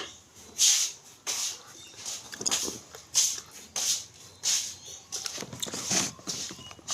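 Close-up, wet chewing and lip-smacking of a person eating, in a steady rhythm of about three smacks every two seconds.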